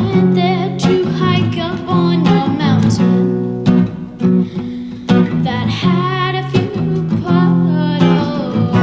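Live band music: acoustic guitar strummed under a wavering sung melody line.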